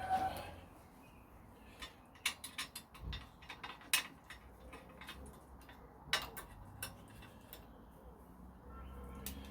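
A series of irregular light clicks and taps, several in quick succession a couple of seconds in and single sharper ones later, over a low steady hum.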